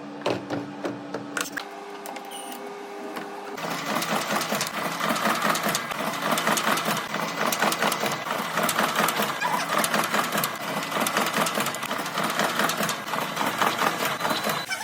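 Sewing machine: a steady hum that shifts up in pitch about two seconds in, then from about three and a half seconds a fast, continuous stitching clatter.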